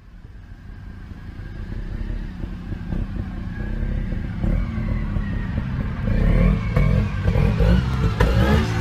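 Motorcycle engine running, fading in and growing steadily louder.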